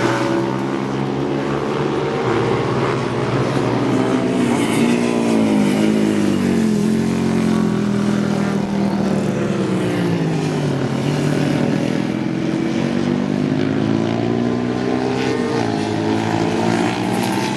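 Several classic racing motorcycle engines running hard on track, their pitches rising and falling as the bikes accelerate, change gear and brake, with the notes overlapping.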